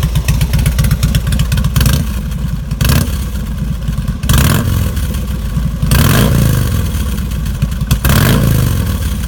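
2001 Harley-Davidson Road King's carbureted 1450 cc Twin Cam 88 V-twin idling through fishtail mufflers, blipped several times. The last two blips rev it higher, and it falls back to idle each time.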